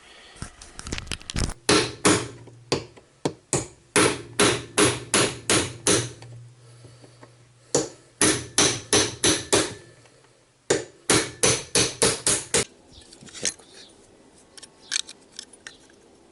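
Hammer striking a car heater blower motor in three quick runs of blows, about three a second, with short pauses between runs, as the fan impeller is knocked loose after being heated to free it from the shaft.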